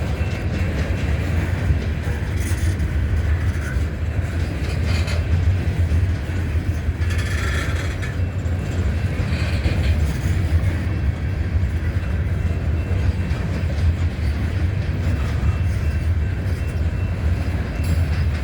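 Freight train rolling past: a steady low rumble of wheels on the rails, with a brief higher-pitched squeal about seven seconds in.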